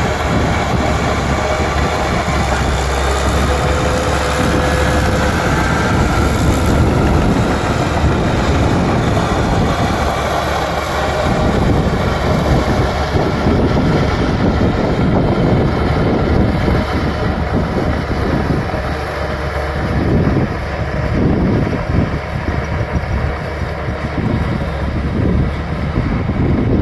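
Bulldozer working: its diesel engine runs steadily under load with the uneven clatter of its steel tracks, and a faint high squeal comes in briefly a few seconds in.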